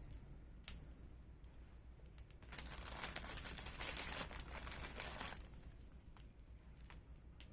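Wood fire crackling, with a few sharp pops and, about two and a half seconds in, a roughly three-second burst of dense hissing crackle before it settles again.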